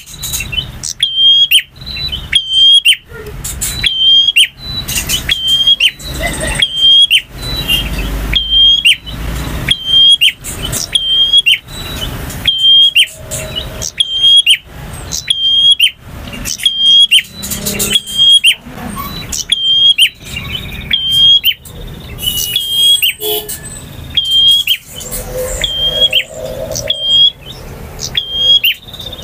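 Male prinia (prenjak) singing: a loud, sharp whistled note repeated about every two-thirds of a second in a steady rhythm, with thinner high notes woven in.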